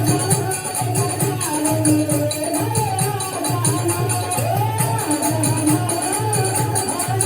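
Hindi devotional bhajan music: a voice singing a wavering melody over a steady, regular drum beat and jingling percussion.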